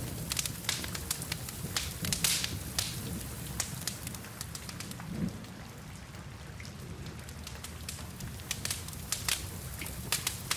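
Wood fire crackling and popping in sharp, irregular snaps over a steady hiss of rain and a low rumble. The crackles thin out around the middle and pick up again near the end.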